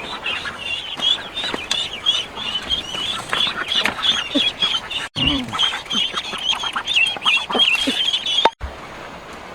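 Ducklings peeping: many rapid, high-pitched chirps overlapping, cutting off suddenly about a second before the end.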